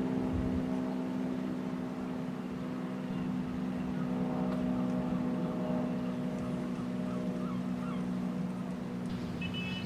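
A steady engine drone holding several low pitches at an even level, cutting off abruptly near the end. Faint bird calls sound over it in the second half.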